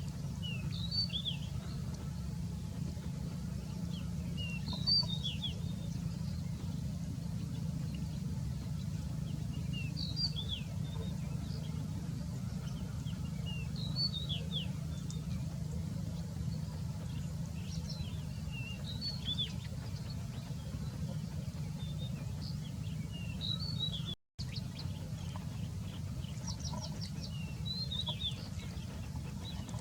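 Small birds chirping: clusters of short high chirps every few seconds over a steady low rumble of background noise. The sound drops out for a moment about two-thirds of the way through.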